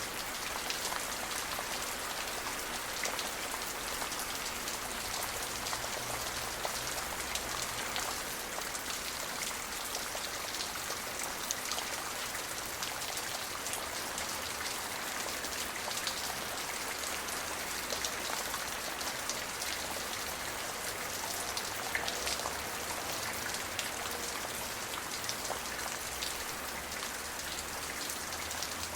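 Steady rain falling, with a dense patter of individual drops striking a surface over an even hiss.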